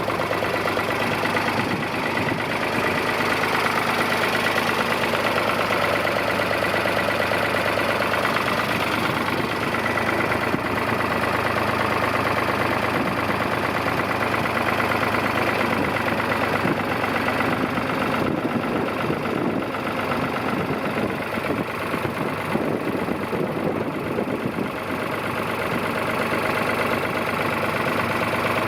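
1973 Ford 2000 tractor engine running steadily.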